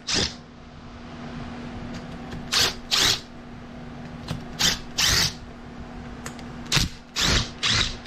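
A handheld power driver run in about eight short bursts, spinning fasteners out of a small engine during teardown, over a steady low hum.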